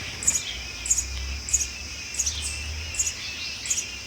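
Sparrows chirping, with a short high chirp repeating evenly about one and a half times a second and wavering chirps in between.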